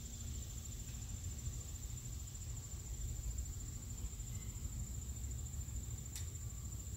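Insects trilling in one steady high-pitched note over a low rumble, with a single brief click about six seconds in.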